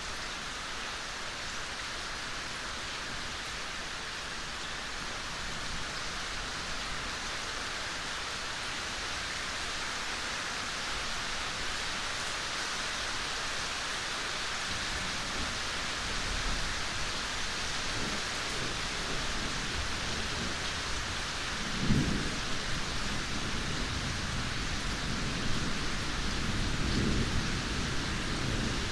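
Steady rain falling. In the second half, low rumbles of distant thunder roll in, with a sharper thunderclap about two-thirds of the way through and another rumble near the end.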